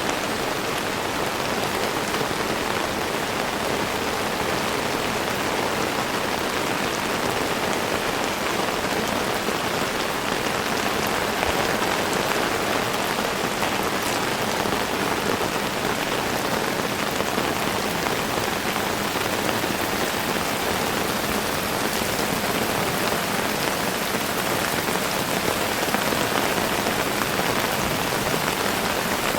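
Heavy rain falling steadily, a dense, even hiss of drops that neither builds nor eases.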